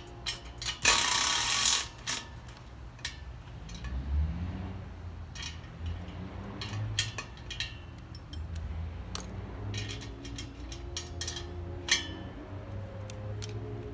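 Hand tools and exhaust parts clicking and clinking as the sections of a cat-back exhaust are bolted together, with ratchet-like clicks scattered throughout. A loud rushing burst lasts about a second near the start.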